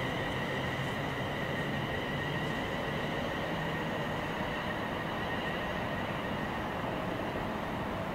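Train running through the station: a steady rumble with a high whine that fades over the first few seconds.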